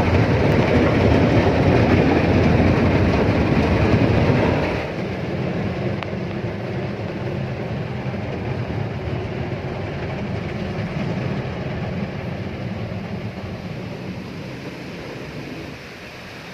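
Car wash running on a car: a loud steady rumble of water and machinery on the bodywork, dropping suddenly to a quieter steady wash noise about four and a half seconds in.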